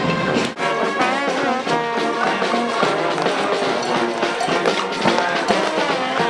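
Brass band playing, several horns sounding together, with a brief drop in the sound about half a second in.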